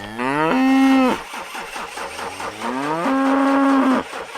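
Cow mooing twice: each moo rises in pitch and then holds steady, the first right at the start and the second about three seconds in.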